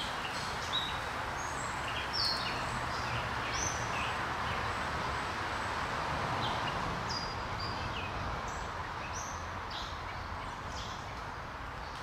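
Small birds chirping: many short, high chirps scattered over a steady background hiss.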